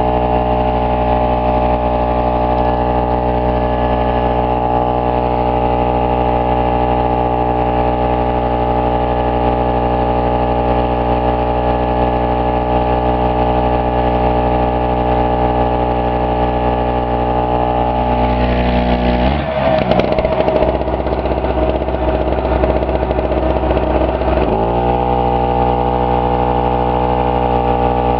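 Pulsar PG1202S 72cc two-stroke generator engine running at a steady speed. About two-thirds of the way through it bogs down under a sudden electrical load, with the rough noise of the air compressor's motor over it for about five seconds. Then the load drops away and the engine climbs back up to speed.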